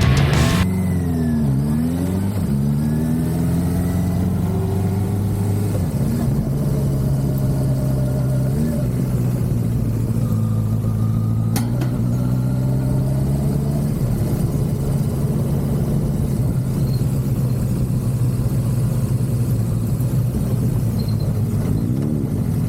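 Motorcycle engine running under way, its pitch rising and falling over the first few seconds, then holding a steady cruising note.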